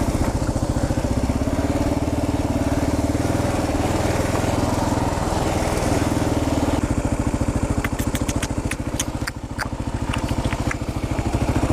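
Kawasaki KLR 650's single-cylinder four-stroke engine running on a dirt trail, a fast steady pulse of firing strokes. About seven seconds in the low note eases off, and a scatter of sharp clicks and knocks follows over the next few seconds.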